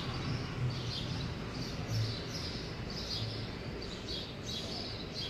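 Birds chirping in the background: short, high chirps repeated about one or two times a second over a faint low hum.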